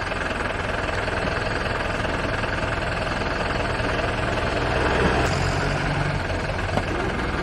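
Vehicle engine running steadily, with a low, even hum and noise.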